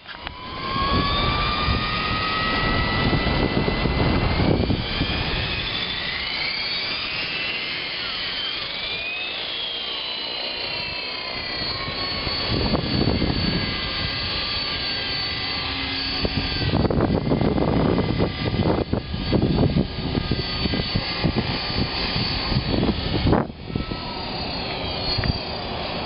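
Align T-Rex 500 Pro electric RC helicopter in flight, its motor and rotor whine gliding up and down in pitch as it manoeuvres. Strong wind buffets the microphone in gusts.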